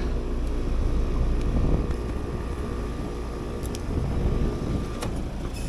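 Heat pump outdoor unit running, compressor and fan giving a steady low hum with a steady tone over it. About five seconds in, the tone cuts off with a click as the unit shuts off shortly after starting, which the technician takes for a sign of a bad TXV.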